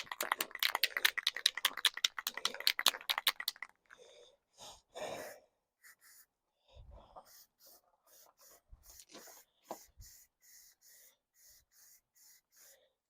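An aerosol spray paint can shaken hard, its mixing ball rattling in quick clicks for about three and a half seconds. Then a string of short hissing bursts of spray follow as paint goes onto the metal headlight buckets.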